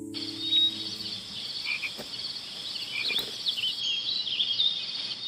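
Frog chorus at a pond: short croaks and chirping calls over a steady, high-pitched pulsing trill.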